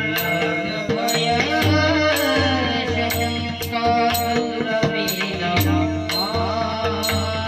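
Marathi devotional bhajan music: pakhawaj drumming under held harmonium-like tones, with bright cymbal strikes about twice a second and a voice gliding through the melody.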